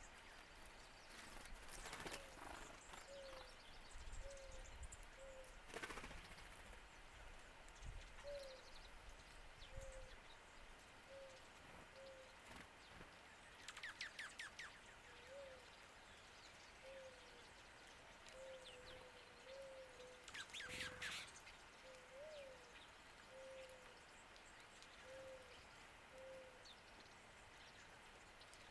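Faint bird calls: a string of short low notes, roughly one a second, with two brief bursts of quick high chirps partway through.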